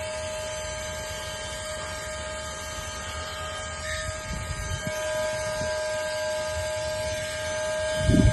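Wapasoo cordless vacuum running at maximum suction, a steady motor whine over the rush of air. Low bumps and knocks come in from about halfway, strongest near the end.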